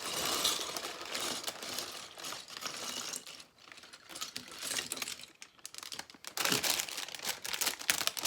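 Plastic Lego parts bags crinkling as they are handled and opened, with small plastic pieces clicking and rattling against each other.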